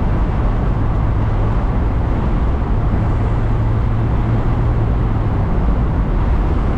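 Mazda MX-5 Miata under way at speed, heard from the cabin: a steady low engine drone under loud road and wind noise.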